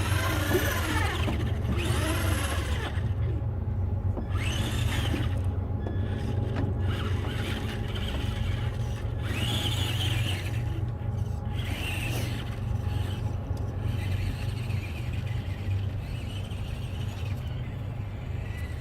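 A vehicle engine running steadily with a low rumble. Several short higher-pitched sounds come over it in the first two-thirds.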